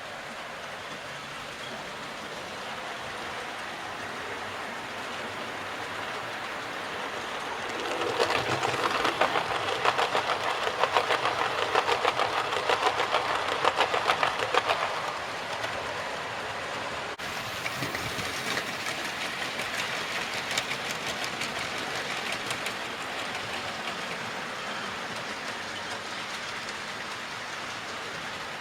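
Model train running on the layout's track: a steady rolling rush that builds, then a rapid clatter of wheels over rail joints as it passes close. The clatter is loudest for several seconds partway through, then settles back to a quieter run with lighter clicking.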